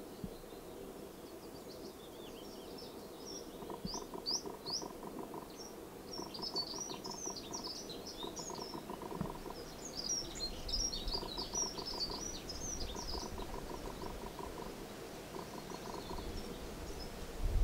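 Songbirds singing in the background: clusters of quick, high chirps and twitters, busiest in the middle, with short runs of a fast, evenly pulsed lower trill. A low rumble comes in near the end.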